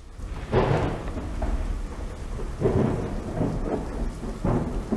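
Rain and wind hitting the camera, heard as a steady hiss that swells into three louder gusts about two seconds apart.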